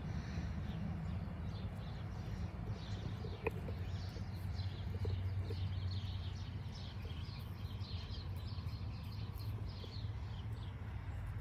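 Small birds chirping, many short high calls in quick succession, over a steady low hum.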